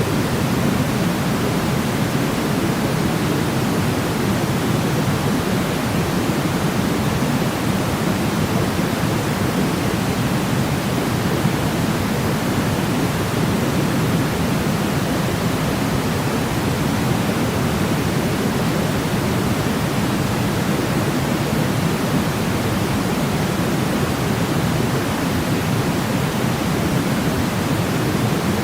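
Steady pink noise for sleep: an even, unbroken hiss, heaviest in the low end, with no changes or events.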